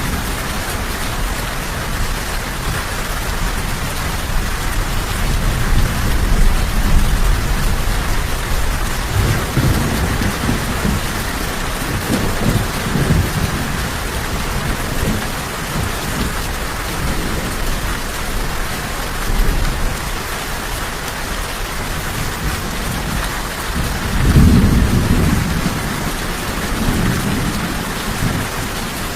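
Steady heavy rain falling, with low rolling thunder rumbling several times; the loudest peal comes near the end.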